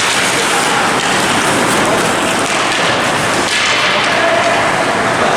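Steady, loud noise of an ice hockey rink during play: crowd and activity on the ice blending into a constant hiss.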